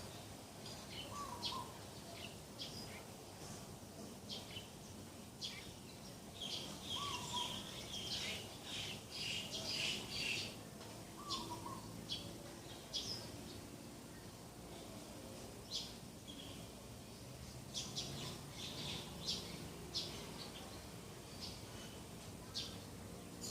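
Several birds chirping and calling: many short, high chirps throughout, busiest about a third of the way in and again near the end, with a lower short call repeated three times.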